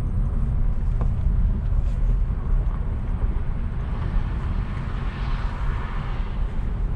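Car driving slowly, a steady low rumble of engine and tyre noise heard from inside the cabin.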